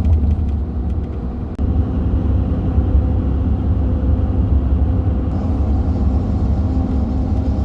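Steady engine and road noise from inside a truck cab cruising on the highway: a constant low drone with a faint engine hum above it.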